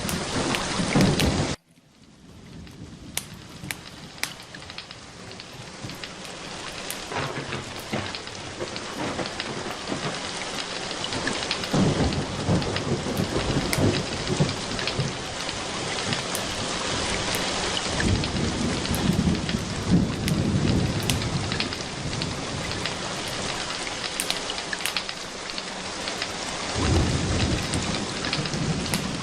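Steady rain falling, with low rolls of thunder swelling several times. About a second and a half in the sound cuts out abruptly, then the rain fades back up.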